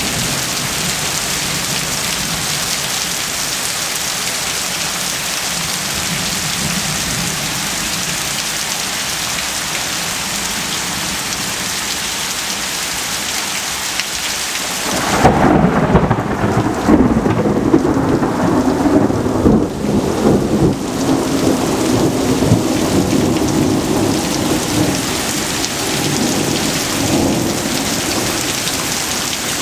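Heavy thunderstorm rain pouring with a steady hiss. About halfway through, a long roll of thunder rumbles in and wavers for more than ten seconds, while the rain's hiss turns duller.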